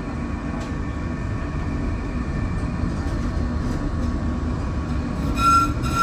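Tram running on rails, a steady low rumble that grows louder; about five seconds in, a high steady squeal with overtones sets in.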